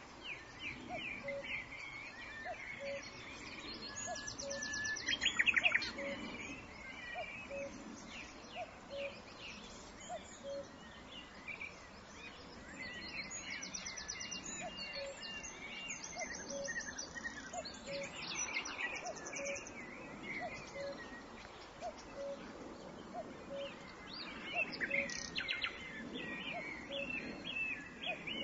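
Several birds singing: chirps, whistles and fast buzzy trills, with a loud flurry about five seconds in. Under them, a short low note repeats steadily about every 0.7 seconds.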